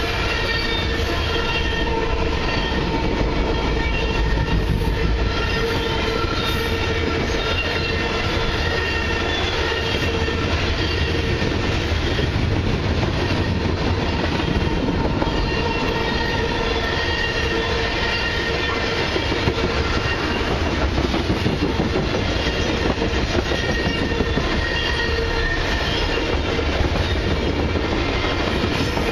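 Freight cars of a long mixed freight train rolling past close by, a steady rumble of wheels on rail with clacking over the joints. Thin steady squealing tones fade in and out above the rumble.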